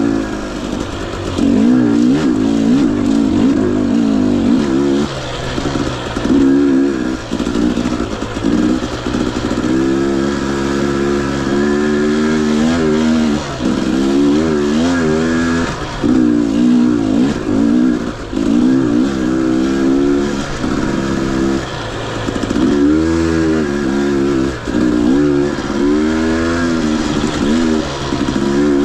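Husqvarna TE 250i two-stroke single-cylinder dirt bike engine under way, its pitch repeatedly rising and falling as the throttle is opened and closed every second or two.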